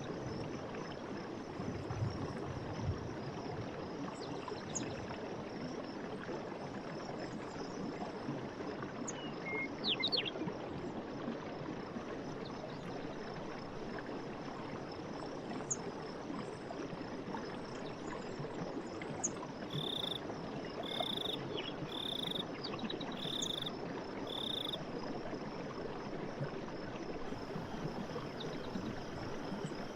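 Night forest ambience: a steady high insect trill over a constant hiss, with frogs calling. About two-thirds of the way through comes a run of five short, evenly spaced calls, roughly one a second.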